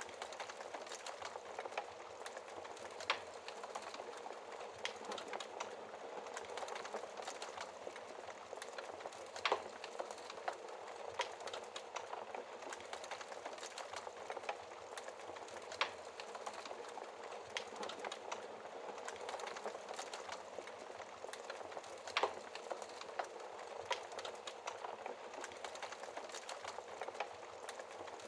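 Wood fire crackling in a fireplace: a steady hiss of burning with dense small crackles and a sharper, louder pop every few seconds.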